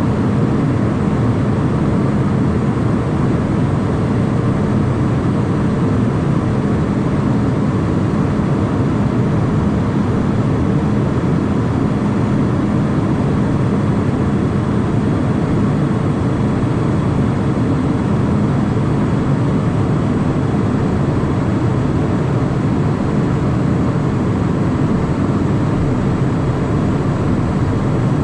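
Steady cockpit noise of a Cessna Citation Mustang twin-turbofan business jet: a constant low rush of engines and airflow with a faint hum and a thin high whine, unchanging throughout.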